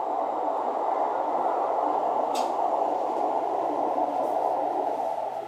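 Steady noise of an electric train at a station platform, with a single click about two and a half seconds in; the noise falls away sharply at the end.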